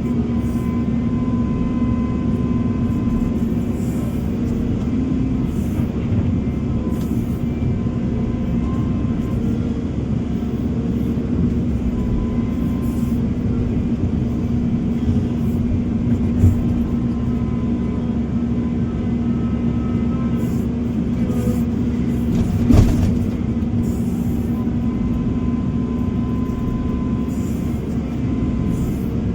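Heavy diesel engine of construction machinery running steadily with a constant low hum, with a short knock about 16 seconds in and a stronger clunk about 23 seconds in.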